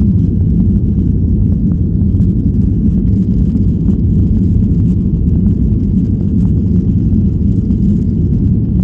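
Steady low rumble inside the cabin of a Boeing 737-800 airliner: the CFM56-7B engines and airflow heard through the fuselage, with faint light rattles.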